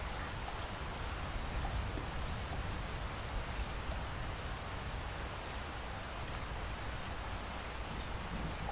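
Steady rainfall, a continuous hiss with scattered drop ticks over a low rumble.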